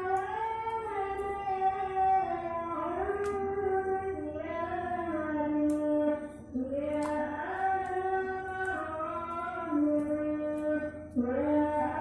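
A song with a high singing voice holding long notes and sliding between them.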